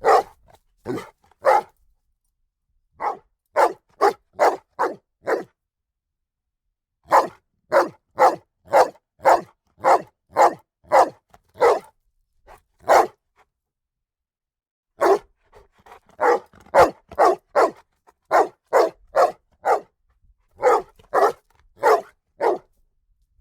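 A dog barking in quick runs of several barks, about two a second, with short silent pauses between the runs.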